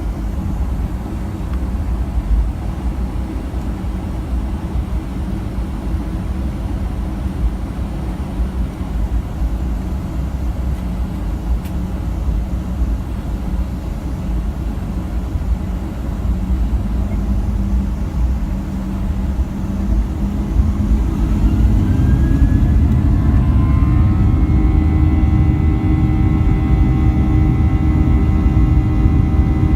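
Steady low rumble inside a jet airliner's cabin. Near the end the engines spool up with a rising whine that settles into steady high tones as the sound grows louder.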